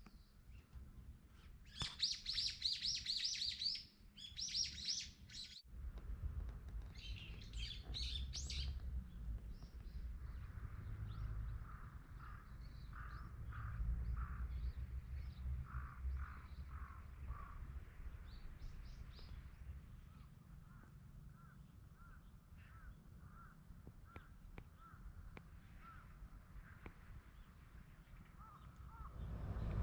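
Small birds chirping in quick high trills, loudest in the first nine seconds, then fainter scattered calls over a low steady rumble.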